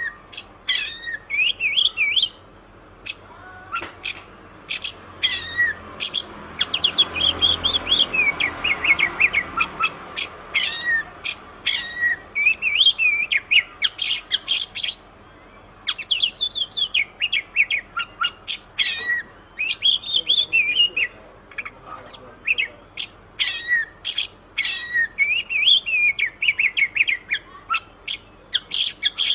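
Oriental magpie-robin (kacer) singing continuously in rapid, varied phrases of chirps, trills and whistles, broken only by brief pauses.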